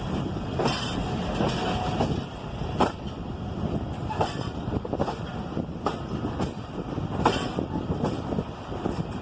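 Passenger train running along the track: a steady low rumble, with a sharp clack every second or so.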